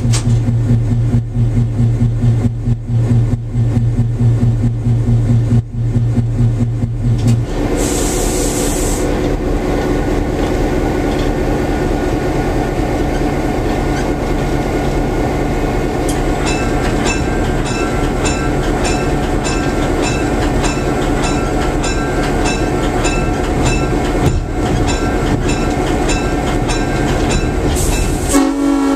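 EMD FP7 locomotive's diesel prime mover heard from inside the cab, with a low, steady hum that changes to a fuller running sound about a quarter of the way in, followed by a short air hiss. From about halfway the locomotive bell rings steadily, a little more than once a second, and the Nathan M5 air horn comes in right at the end.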